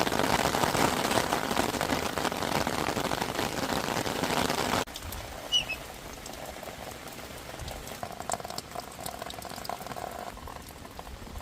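Steady rain falling hard, cut off abruptly about five seconds in; after that a much quieter outdoor background with a brief high chirp.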